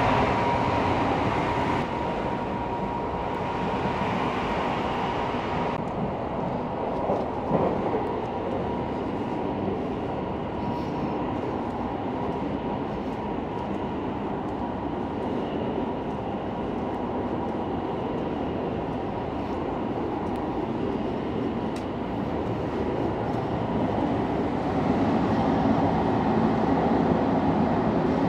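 Sleeper train running, heard from inside the carriage: a steady, even rumble of wheels on the rails and car running noise, with a faint steady hum in the first few seconds and a couple of soft knocks about seven seconds in.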